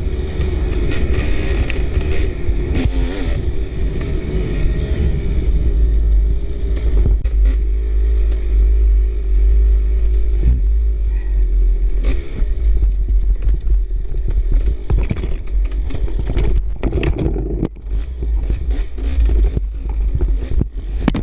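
Dirt bike engine running on a rough trail, holding a steady note for the first few seconds, then rising and falling with the throttle, under a heavy low wind rumble on the microphone. Scattered knocks and clatter from the bike over the ground, thicker near the end.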